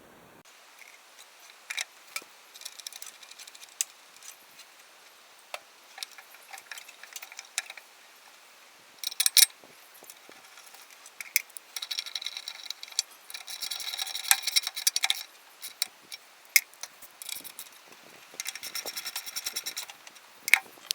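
Hand tools working on a push mower: scattered sharp metal clicks and knocks, with two runs of rapid, even ticking, the longer one near the middle.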